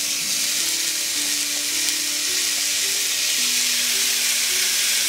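Seasoned catfish fillets sizzling on a hot ridged griddle over a gas burner: a steady, loud frying hiss.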